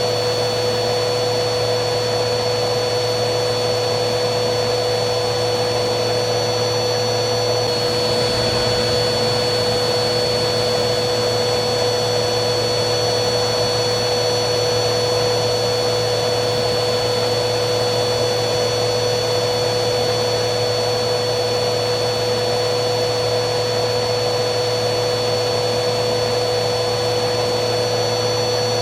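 Vacuum cleaner motor running steadily: an even rush of air with constant motor whines, the highest whine stepping slightly up in pitch about eight seconds in.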